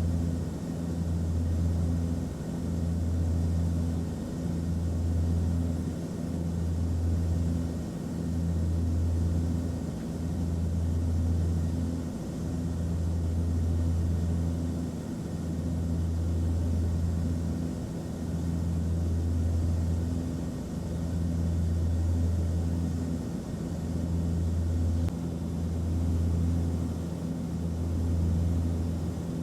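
Airplane cabin noise: a steady low engine drone that swells and dips about every two seconds, over a soft rush of air.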